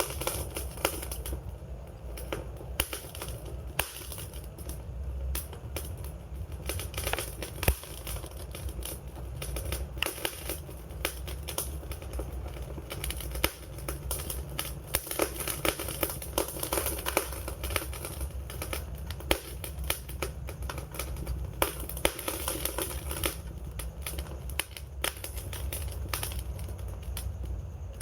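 Wood fire burning with dense, irregular crackling and sharp pops over a steady low rumble of the flames.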